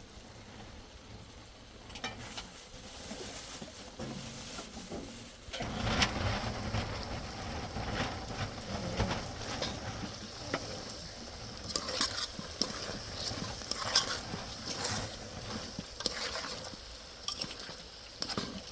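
Cooking sounds: a utensil stirring and knocking against a pot, with scattered clicks. From about five seconds in, a louder sizzling hiss joins.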